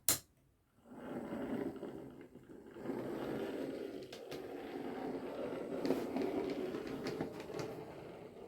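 A sharp double click, then an OO gauge model train running on the track from about a second in: a steady rumble of the small motor and wheels on rail, with occasional light clicks.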